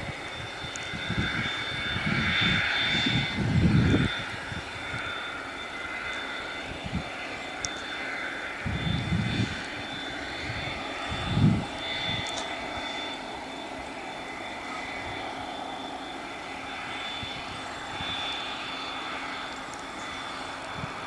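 Cessna 550 Citation II's twin Pratt & Whitney JT15D turbofans running at taxi power, a steady high whine over a constant rush. A few low rumbles come and go in the first half.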